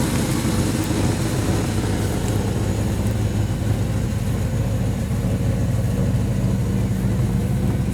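1955 Plymouth Belvedere's original V-8 idling steadily.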